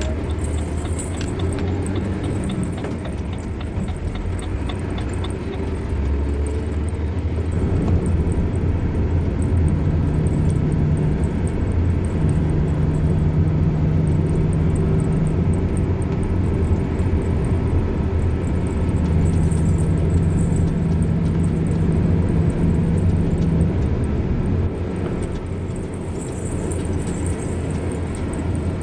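A moving car's engine and road noise: a steady low rumble whose engine hum rises and falls with the driving. It grows louder about a quarter of the way in and eases off near the end.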